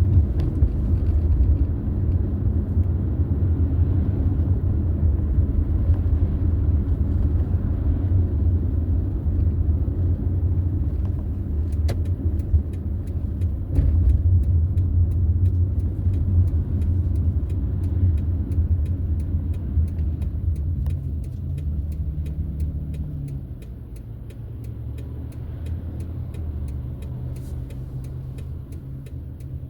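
Car driving, with a steady low road-and-engine rumble that drops noticeably in level about two-thirds of the way through. From about twelve seconds in, an even, fast ticking runs underneath.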